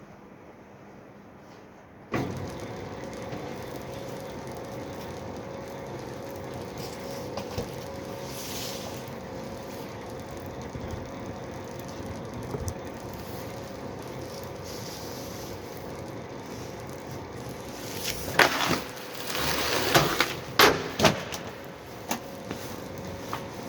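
Used Seshimo Machinery cardboard slitter (1300 mm width) starting up about two seconds in, then running with a steady machine hum. Near the end come several loud, harsh surges of noise.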